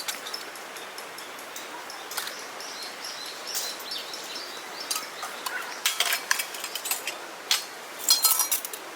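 Outdoor ambience with faint bird chirps, then a run of sharp clicks and knocks in the second half.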